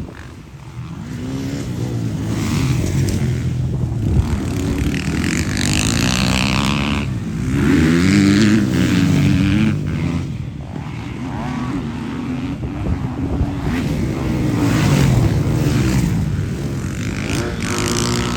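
Several motocross motorcycle engines racing, revving up and down with overlapping, shifting pitch as the bikes ride the track.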